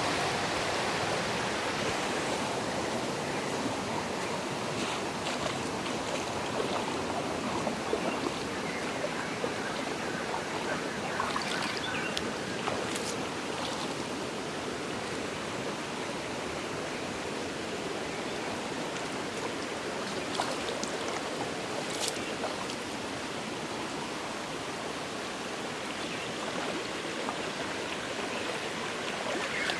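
Steady rush of water cascading down a natural waterfall and stream. A few brief, faint high sounds stand out near the middle.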